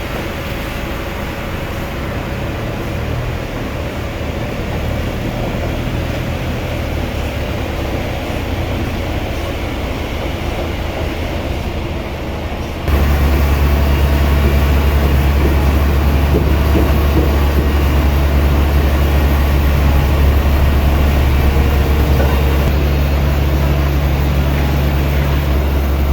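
Sawmill machinery running steadily; about halfway through it abruptly becomes louder, with a strong deep hum.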